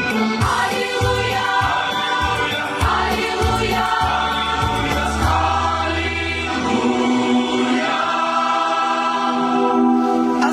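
A choir sings a Ukrainian sacred song over a low, pulsing bass accompaniment. The bass drops out about six and a half seconds in, and the singers hold a long final chord to the close of the song.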